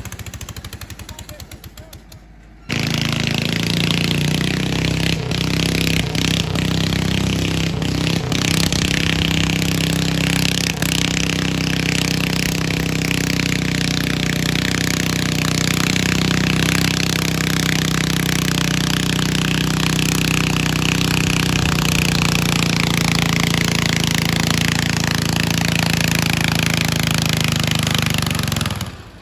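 Pulling garden tractor's engine running hard at steady high revs, a loud sustained drone with a slight waver in pitch; it cuts in suddenly about three seconds in, after a fading engine, and stops abruptly at the end.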